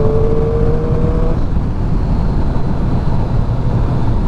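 Triumph 675 inline-three motorcycle running on the road, with heavy wind rush on the rider's microphone. A whine rises slightly in pitch over the first second or so, then stops.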